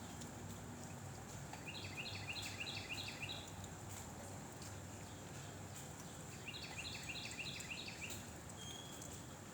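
Wind blowing steadily, with a small songbird twice singing a quick series of about eight short notes, once about two seconds in and again about seven seconds in.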